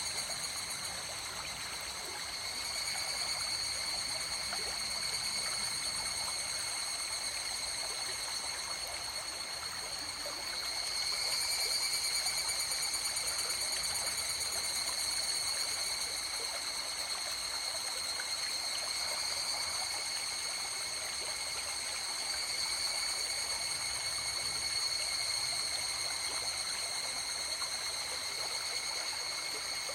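River water flowing and trickling, with a steady high-pitched chorus of insects running over it.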